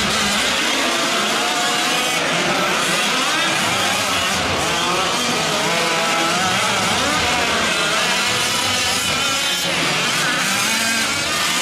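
Several 1/5-scale gas RC trucks' small two-stroke engines buzzing together, their pitches rising and falling as they rev and back off.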